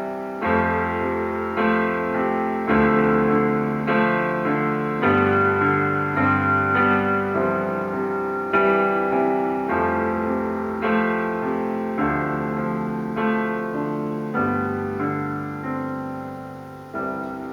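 Instrumental break of a slow song played on keyboard: struck piano-like chords, each dying away, over a changing bass line, with no singing.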